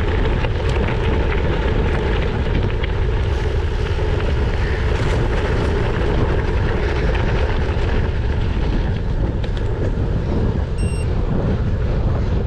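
Steady wind buffeting on a GoPro's microphone while riding a gravel bike at speed, with a faint crackle of tyres rolling over gravel. A short high beep sounds near the end.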